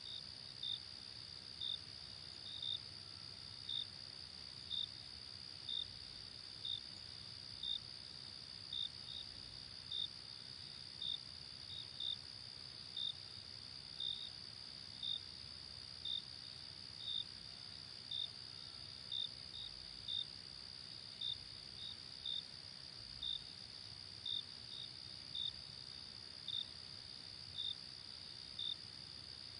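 Night insects: a steady high-pitched insect trill, with a cricket chirping about once a second, now and then twice in quick succession.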